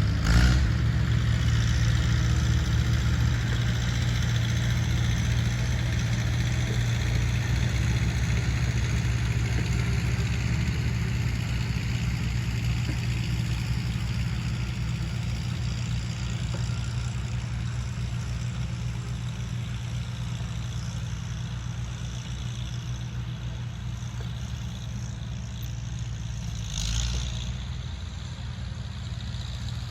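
Tractor engine idling steadily, slowly growing quieter, with a brief louder noise just after the start and another about 27 seconds in.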